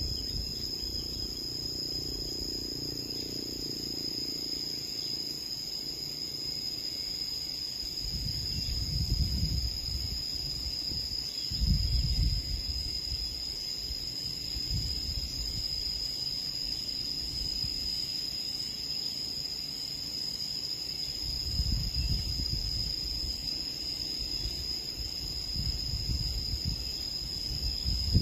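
Steady, high-pitched insect drone that never lets up, with several irregular low rumbles on the microphone coming and going beneath it.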